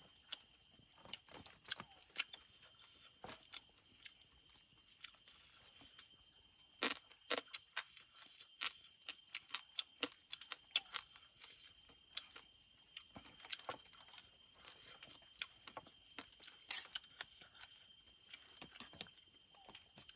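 Irregular sharp clicks and clinks of utensils and chewing during a meal, the loudest about 7 and 17 seconds in, over a steady high-pitched drone of night insects.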